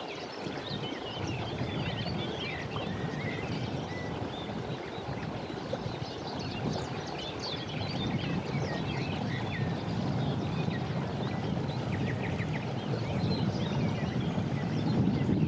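Several small birds singing and chirping in overlapping short calls over a steady low rumble that grows louder near the end.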